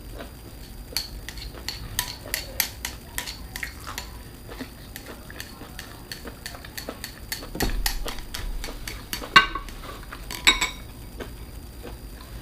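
Tableware clinking while eating: a run of small sharp clicks and clinks of utensils and shells against dishes, with two louder ringing clinks near the end.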